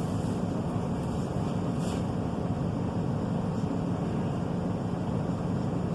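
Steady rumble of a Class 153 diesel railcar heard from inside the passenger cabin, with its underfloor Cummins diesel engine running and no change in pitch.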